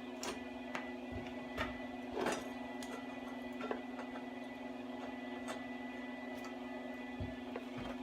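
A steady electrical hum with a faint high whine above it, and scattered light clicks and taps every second or so.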